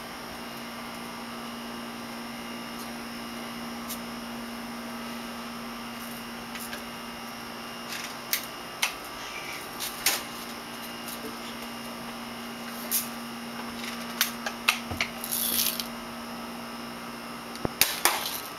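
Scattered light clicks and knocks from a BB rifle being handled, over a steady low hum.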